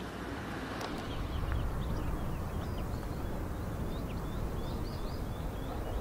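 Small birds chirping in a rapid series of short high notes, over a steady low rumble of outdoor background noise.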